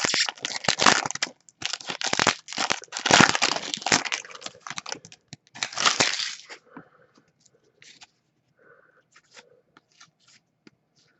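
A trading card pack's foil wrapper being torn open and crumpled, a run of loud crinkling rustles for about six and a half seconds. After that come only faint clicks and slides as the cards are handled.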